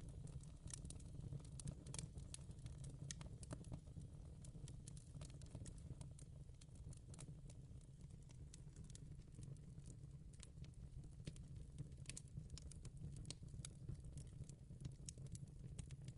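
Faint fireplace crackling: irregular sharp pops and snaps over a low steady rumble.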